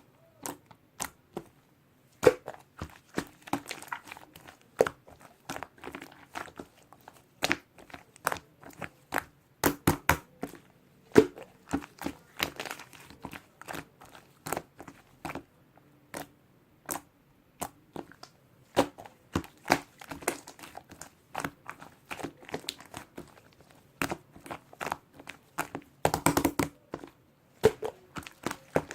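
Slime being squished and stretched by hand, giving irregular sticky clicks and crackles, with a denser burst of crackling a few seconds before the end.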